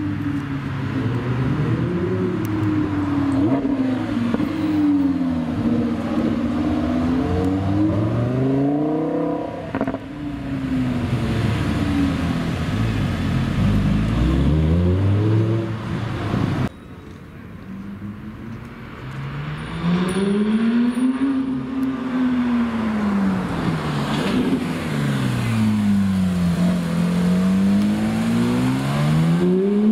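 High-revving supercar engines, an Audi R8 V10 and a Porsche 911 GT3 RS among them, accelerating hard and revving, the pitch climbing and falling again and again. The sound cuts off abruptly about halfway, then another car takes over with long rising and falling revs.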